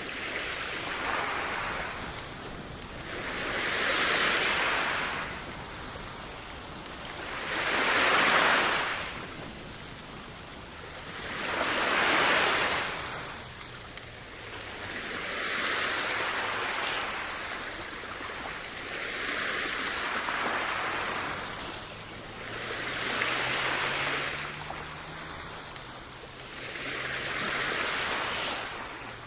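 Sea waves washing onto the shore, each swell of surf rising and falling away about every four seconds.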